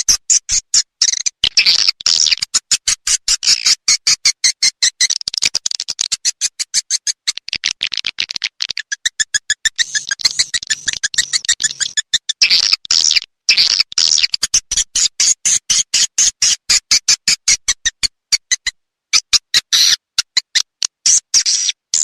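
Swiftlet call track of the kind played to lure swiftlets into a nest house: dense, rapid, high-pitched chattering twitters that cut in and out in many short gaps.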